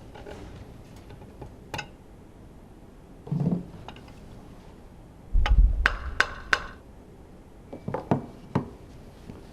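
Metal engine parts and hand tools knocking and clinking during engine disassembly: a dull thud about three seconds in, a heavier clatter with a short metallic ring midway, and a few sharp knocks near the end.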